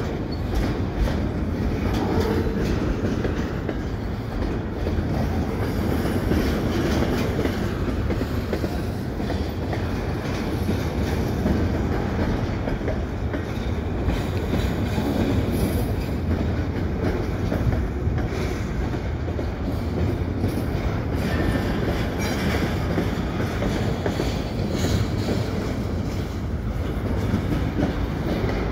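Double-stack container well cars rolling past as the train is backed into the yard tracks: a steady rumble of wheels on rail with repeated clicks.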